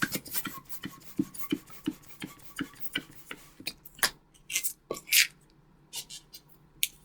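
Latex modelling balloons being handled: irregular rubbing and light clicks, with a few brief scraping hisses.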